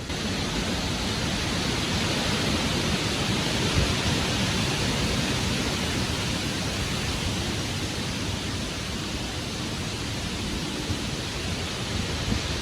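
Strong wind rushing through trees, a steady hiss with some low rumble of wind on the microphone.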